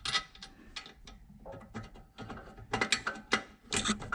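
Irregular metallic clicks and clinks of a bolt and small parts being worked by hand into a metal bracket, with a cluster of quick clicks near the start and another from about three seconds in.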